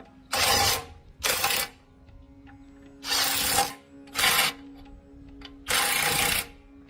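Compressed air hissing in five short bursts, each under a second, with pauses between them, over a faint steady hum.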